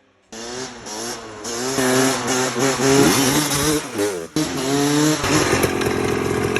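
Small motorbike engine revving up and down in pitch, starting abruptly after near silence. From about five seconds in it settles into a fast, steady run.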